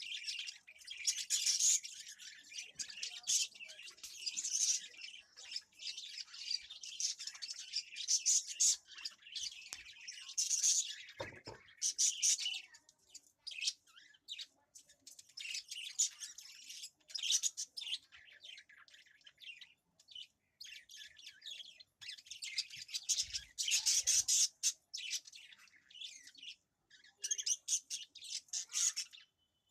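Small birds chirping and twittering in quick, busy bursts, with short pauses now and then.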